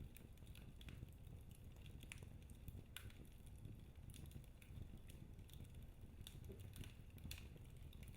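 Log fire in a fireplace crackling faintly, with scattered small pops and snaps over a low steady rumble.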